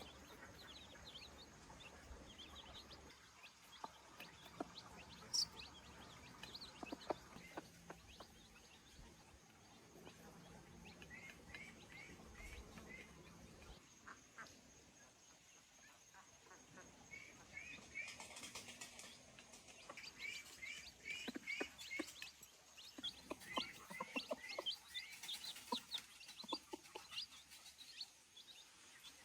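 Birds chirping in short rapid runs of quick high notes, busier in the second half.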